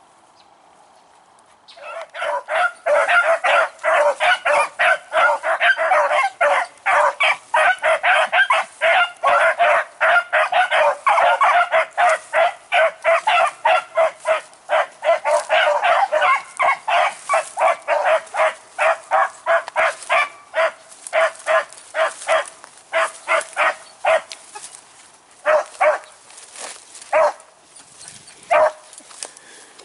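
Beagles baying as they run a rabbit's scent trail: a dense chorus of rapid, overlapping barks starts about two seconds in, then thins to scattered single barks near the end.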